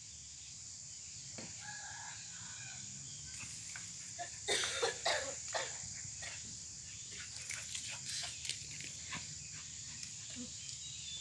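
Faint clucking of chickens, with scattered short scratching and rustling noises that come thickest a little after the middle, over a steady high insect drone.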